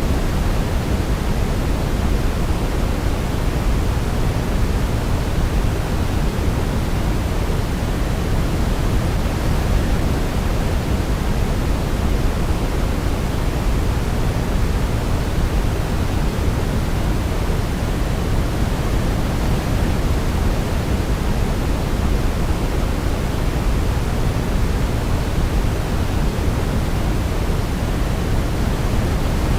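Steady sleep noise for babies: an even, deep hiss weighted toward the low end, unchanging throughout.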